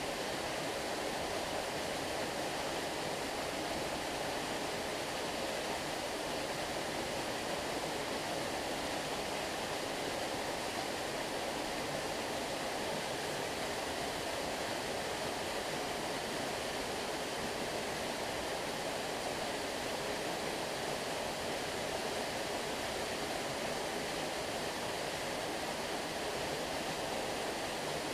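Flowing water rushing steadily, an even, unbroken sound with no distinct splashes or other events.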